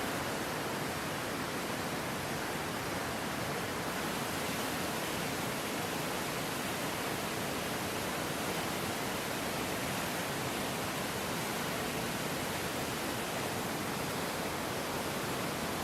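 Steady, unbroken rush of a river in flood, the water's roar spread evenly from low to high with no single events standing out.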